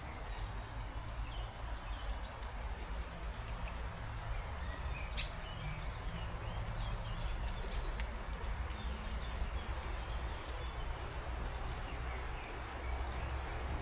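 Heavy rain falling steadily as an even hiss, with many separate drops ticking close by and a low rumble underneath.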